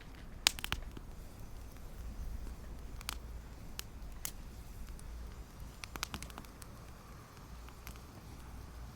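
Wood campfire burning, crackling with scattered sharp pops, the loudest about half a second in and a small cluster around six seconds in, over a low steady rumble.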